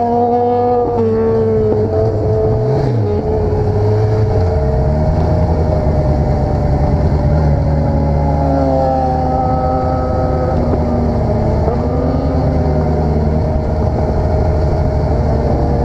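Vehicle engine running under way, its note shifting briefly about three seconds in and then holding steady; the engine is one the title reports as misfiring.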